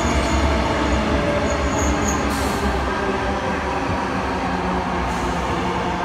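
Sydney Trains Tangara double-deck electric train running past on the track below and drawing away: a steady rumble of wheels on rail. Brief high wheel squeals come in the first two seconds.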